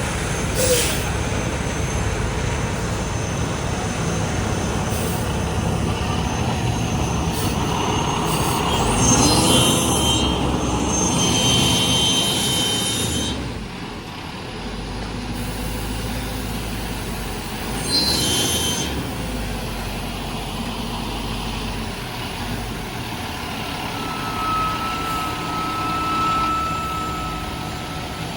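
Heavy asphalt-paving machinery running steadily with a deep engine rumble, with bursts of hissing about nine seconds in and again around eighteen seconds.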